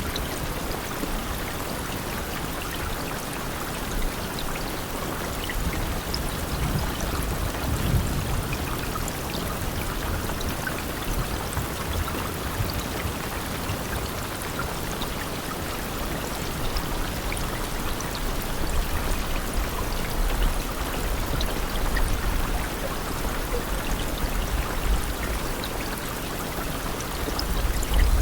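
Steady rain falling, an even hiss of water with scattered individual drop ticks and a low rumble underneath.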